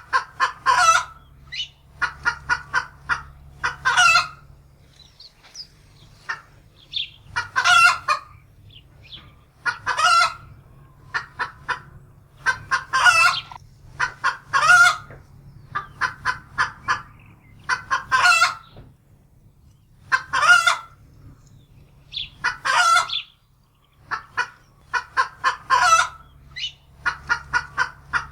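Domestic hen cackling in alarm: runs of quick clucks, each ending in a longer, louder squawk, repeating about every two seconds. It is the frightened cackle of a hen that has seen a predator, a wildcat.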